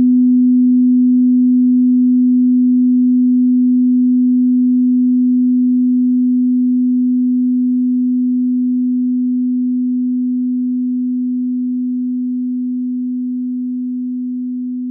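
A single steady pure tone, slowly fading out. A few fainter ringing overtones die away in the first couple of seconds.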